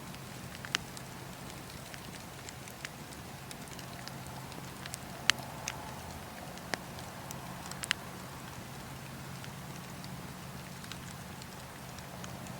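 Wood fire burning in a fireplace, a steady low rumble of the flames with scattered sharp crackles and pops, the loudest about five seconds in.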